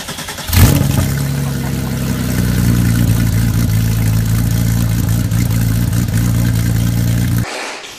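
Porsche 964's air-cooled flat-six catching with a loud burst about half a second in, then idling steadily with a deep, even exhaust note. It cuts off abruptly near the end.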